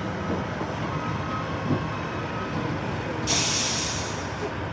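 Garbage truck engine running steadily, then a sudden loud burst of air hiss about three seconds in that fades away within about a second.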